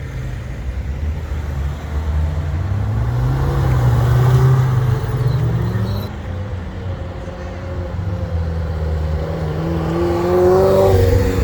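Ferrari engines accelerating hard, the exhaust note rising in pitch to a peak about four seconds in, easing, then climbing again to its loudest just before the end.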